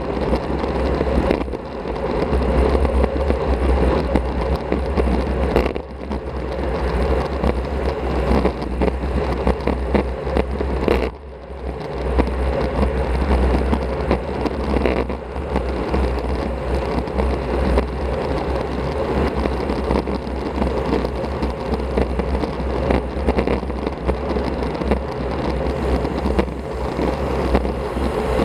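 Wind rushing over an action camera's microphone as a road bike rides at speed, a deep steady rumble with tyre and road noise beneath it, dipping briefly twice.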